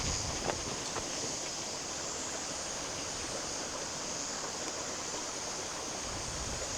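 Steady rushing noise of flowing water, with a few faint clicks in the first second.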